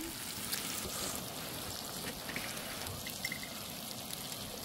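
Pork belly, kimchi and tofu sizzling on a camping griddle: a steady hiss with many small crackles.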